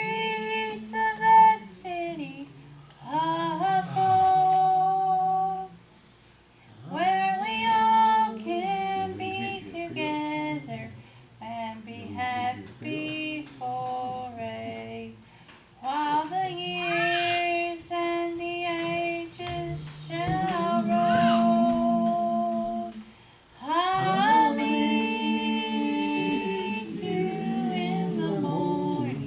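A solo voice singing a gospel song in church, holding long notes in phrases of several seconds with short breaks between them.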